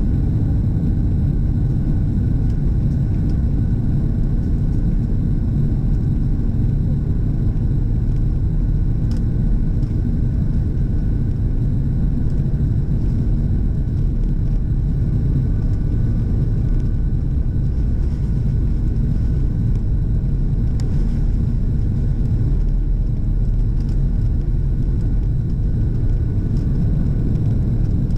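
Steady low rumble of an airplane in flight, even throughout with no rise or fall.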